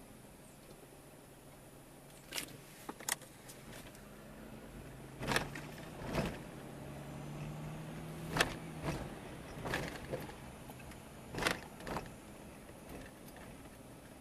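Car in motion heard from inside: a low steady hum with about nine irregular knocks and thumps, the loudest a little after the middle.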